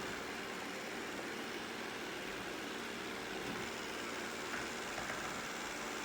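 Robot vacuum running, a steady whir of its suction motor and brushes with an even hiss.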